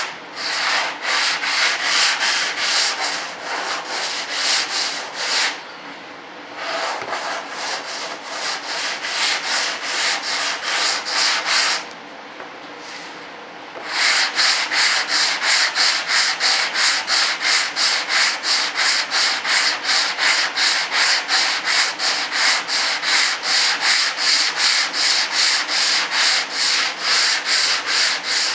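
Sandpaper rubbed back and forth by hand over a model's body-filler surface, evenly spaced strokes about two a second, with two short breaks partway through.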